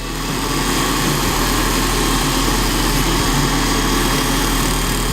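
Electric knife-sharpening grinder running steadily, a constant motor hum under an even grinding hiss, building up over the first second.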